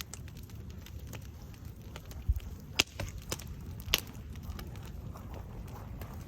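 Wood bonfire burning with scattered crackles and a few sharp pops, the loudest about three and four seconds in, over a low steady rumble.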